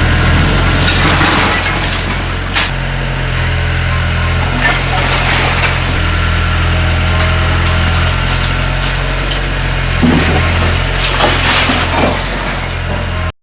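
A heavy machine's engine running steadily, its low drone shifting in load every few seconds, with a few scattered knocks during the house demolition work.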